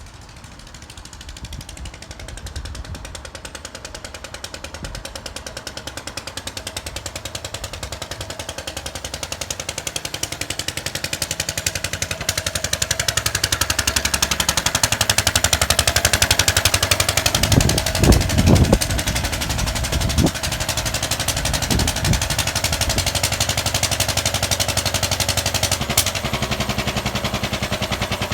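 Lister stationary engine running with a rapid, even firing beat, growing louder over the first dozen seconds and then running steadily. A few low thumps come about two-thirds of the way in.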